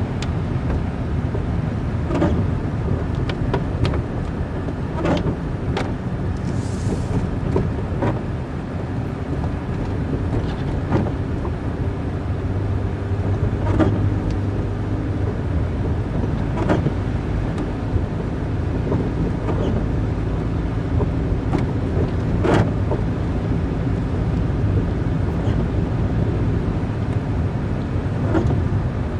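Car driving on a rough road, with steady engine and tyre rumble and scattered sharp clicks and knocks throughout.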